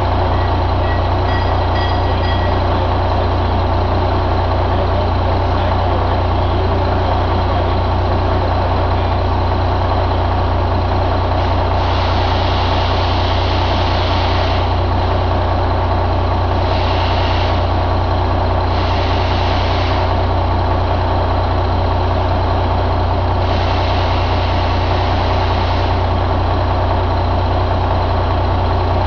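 Detroit DD15 inline-six diesel engine idling steadily, with a few spells of hissing over the idle.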